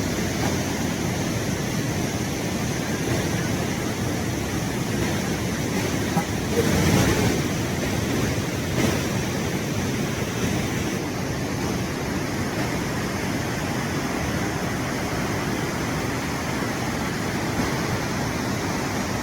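Steady roar of a waterfall with a 20-metre drop into a river, swelling a little about seven seconds in.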